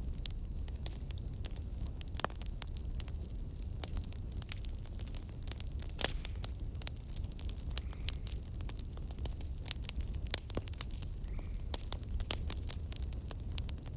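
Wood fire burning in a fireplace, crackling with irregular sharp pops over a steady low rumble. A faint steady high tone runs underneath.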